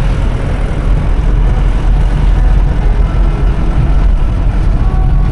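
Safari vehicle's engine running: a steady low rumble with no sudden events.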